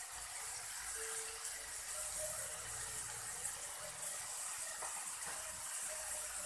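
Sliced mushrooms frying in oil in a pan, a steady sizzling hiss.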